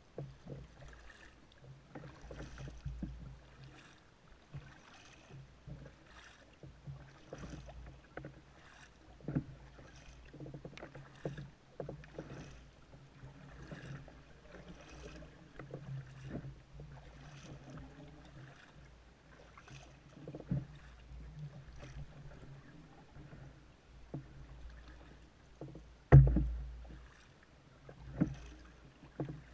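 Kayak paddle strokes dipping and splashing in calm water, about once a second, with one loud knock against the kayak near the end.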